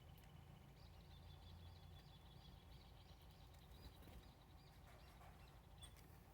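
Faint bird song: a high series of quick repeated notes, about four a second, lasting about four seconds, over a steady low hum.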